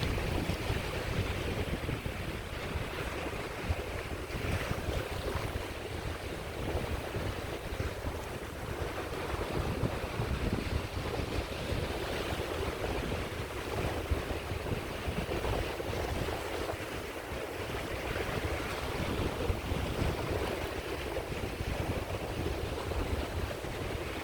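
Sea waves breaking and washing on the shore in a steady wash that swells and eases every few seconds, with wind buffeting the microphone as a low rumble.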